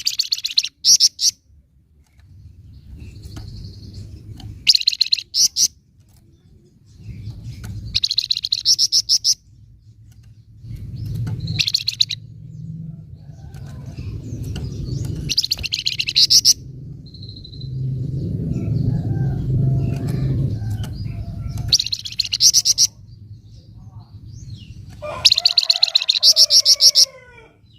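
Flamboyan songbird giving its sharp, rapid rattling 'nyecret' call in short bursts, about seven times, a few seconds apart, over a low background rumble.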